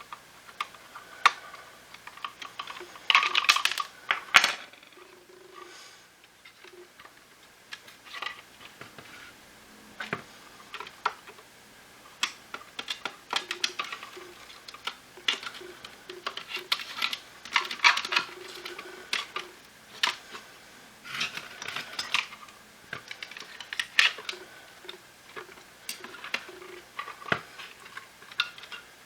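Hard plastic parts of a Shark IF250uk cordless vacuum clicking and clattering as it is taken apart by hand, in scattered taps and short rattling bursts, busier a few seconds in and again past the middle.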